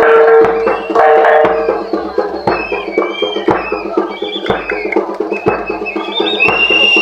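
Live jaranan music: percussion striking a steady beat about once a second under held pitched notes, with a long high note near the end.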